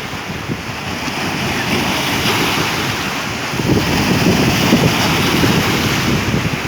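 Sea waves surging and breaking at high tide, a steady rush of surf, with wind buffeting the microphone in gusts.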